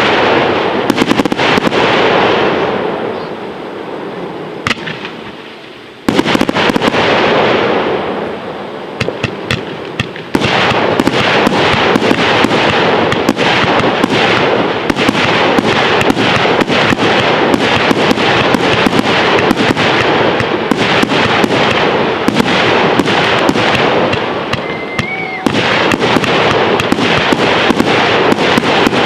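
Fireworks display: loud bangs of shells bursting, each trailing off with echo, one just before the start and another about six seconds in. From about ten seconds in the reports come thick and fast, a dense continuous crackling barrage.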